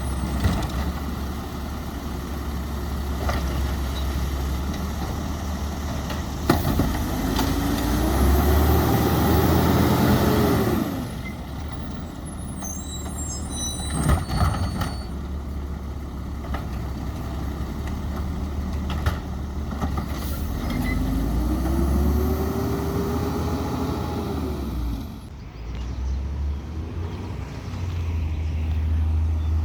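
Peterbilt 320 garbage truck with a Labrie Expert 2000 side-loader body: its diesel engine idles, then twice revs up, holds for a few seconds and drops back, as it would to drive the hydraulics. A few sharp knocks come between the revs.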